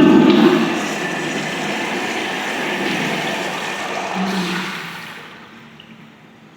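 Crane Expedio urinal flushing: a sudden rush of water that runs steadily for about five seconds, then dies away.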